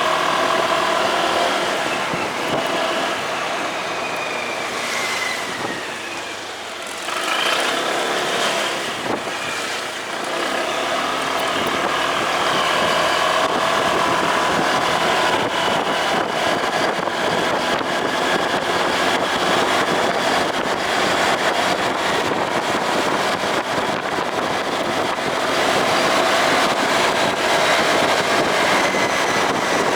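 Motorcycle engine running on the move, under a rushing noise. Several seconds in it eases off, dropping in pitch and level, then picks up again.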